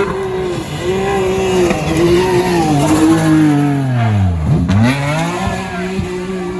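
Rally car passing at speed with its engine revving hard; about four seconds in the engine note drops steeply, then climbs again as the car accelerates away.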